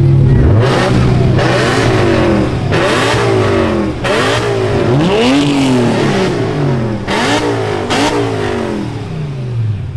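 A car engine revved again and again over a steady idle, about one rev a second, each rev rising and falling in pitch.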